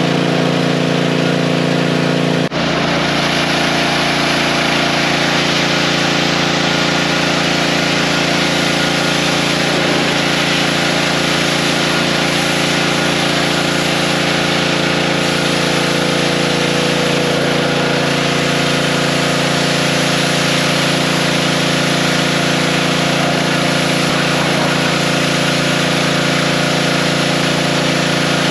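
An engine running steadily, with an abrupt cut about two and a half seconds in, after which it runs on unchanged.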